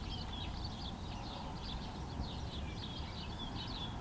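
Birds chirping, many short calls overlapping one another, over a low steady background rumble.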